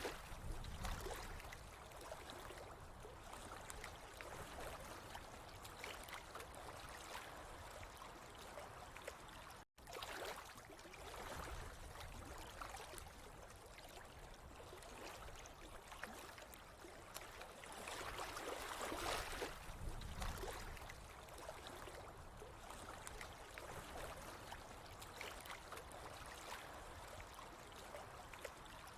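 Water trickling and gurgling continuously, with one momentary cut to silence about ten seconds in.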